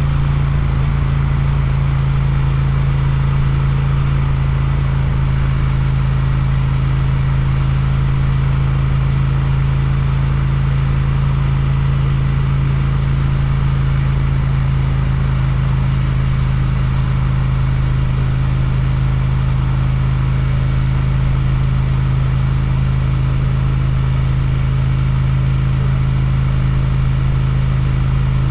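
Twin-cylinder motorcycle engine with an Akrapovic exhaust, running at a steady, unchanging pitch with no revving.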